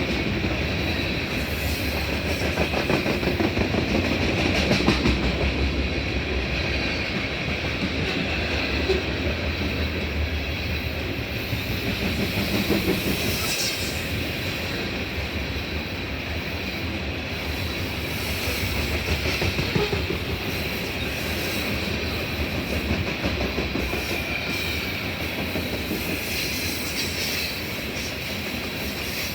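Train passing on the tracks: a continuous, steady sound of railcar wheels running over the rails, with faint high tones from the wheels.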